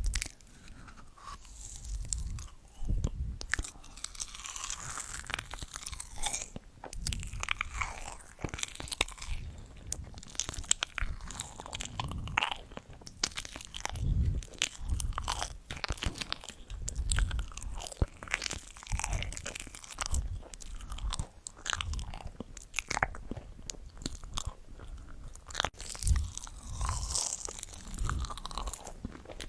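Close-miked crunchy chewing and biting of food, in irregular crackling bites with soft low thuds of the jaw between them.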